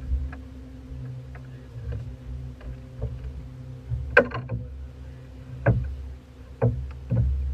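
A boat motor running steadily at a low hum, with scattered sharp clicks and knocks over it; the loudest knock comes a little after four seconds in.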